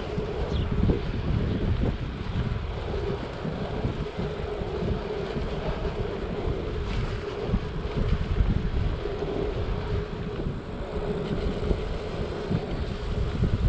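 Wind rushing and buffeting over the microphone of a moving bicycle, a steady rumble with a constant low hum running under it.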